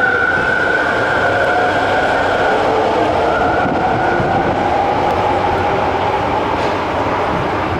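Subway train running alongside the underground platform: steady wheel-on-rail noise with an electric motor whine that fades a few seconds in.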